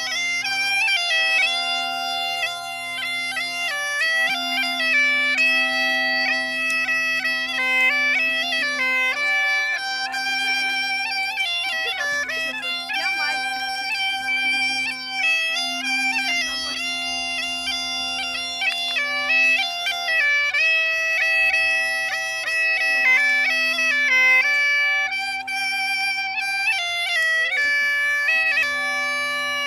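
Bagpipe playing a melody on the chanter over a steady, unbroken drone.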